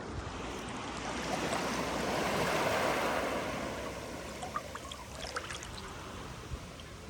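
Sea wave washing up a sandy beach: a rush of surf that swells to its loudest a little before halfway, then fades as the water draws back, with scattered small crackles in the second half.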